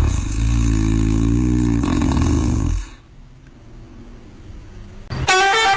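A low, drawn-out vocal sound lasting about three seconds, followed near the end by a short, higher-pitched cry.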